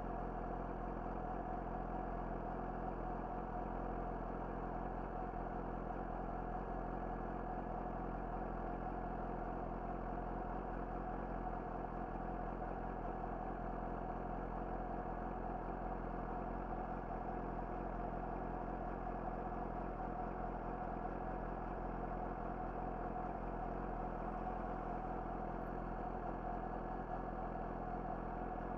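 Yamaha YZF-R6's inline-four engine with an Akrapovic slip-on exhaust idling steadily, its pitch unchanging throughout.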